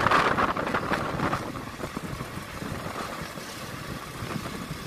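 Running noise of a moving passenger train heard from an open coach window: wind rushing over the microphone and the rumble of the wheels on the track. The rush is loudest in the first second or so, then settles to a steadier rumble.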